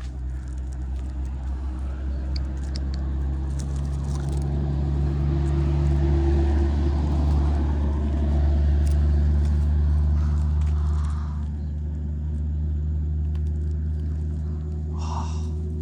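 An engine running steadily with a low hum, growing louder through the middle and easing off again.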